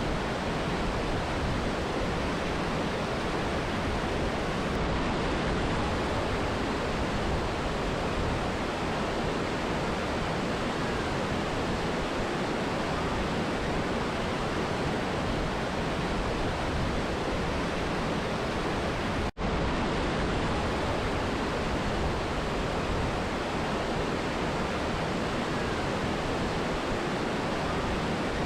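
Mountain river and waterfall rushing in a steady, dense roar of water, with a split-second dropout about two-thirds of the way through.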